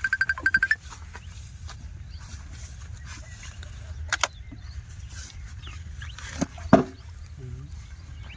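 A chicken clucks in a quick run of short notes at the start, over a steady low rumble. A sharp knock comes about four seconds in and a louder thud a little before the end.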